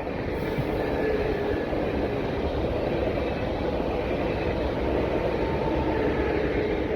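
A train passing on the line: a steady rumble with faint humming tones running through it.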